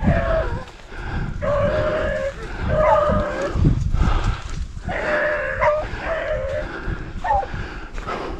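A pack of rabbit-hunting beagles baying on the trail: a run of long drawn-out bawls, several dogs overlapping at different pitches.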